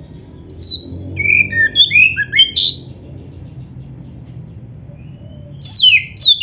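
Oriental magpie-robin (kacer) singing: a quick run of loud whistled notes that slide down in pitch, a pause of about three seconds, then another run near the end, over a faint low hum.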